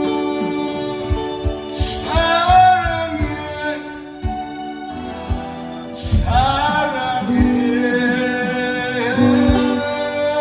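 A singer performing a Korean ballad live over instrumental accompaniment with low drum hits, holding long notes with vibrato about two and six seconds in.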